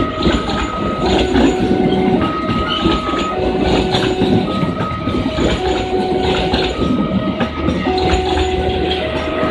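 Passenger train hauled by a CC 203 diesel-electric locomotive rolling into a station, with a steady rumble and clatter of wheels and engine. Over it, an electronic two-tone warning signal alternates between a high and a low pitch about once a second.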